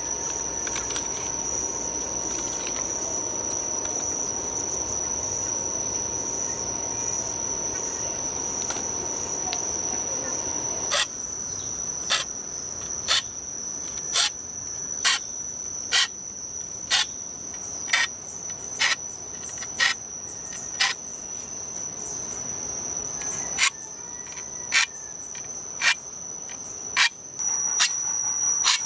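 Steady high-pitched insect trill of crickets. About a third of the way in, sharp knocks start and repeat about once a second.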